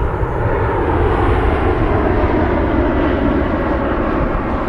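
Jet airliner engines: a steady rumble with a slowly wavering tone.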